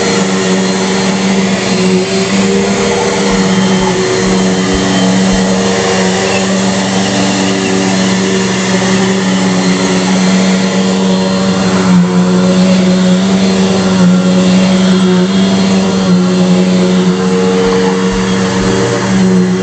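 Bissell PowerForce Bagless 6582 upright vacuum cleaner running steadily and loudly, a constant motor hum under the rush of air.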